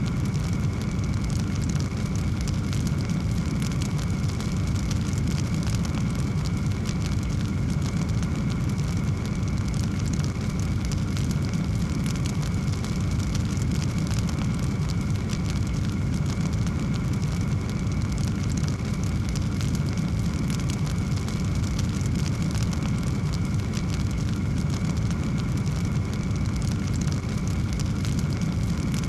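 Wood fire in a fireplace burning steadily: a continuous low rumble of flames with many small, irregular crackles and pops.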